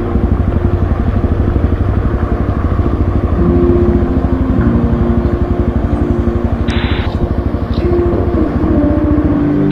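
Motorcycle engine running with a steady, rapid pulsing beat. A brief hiss-like noise comes about seven seconds in.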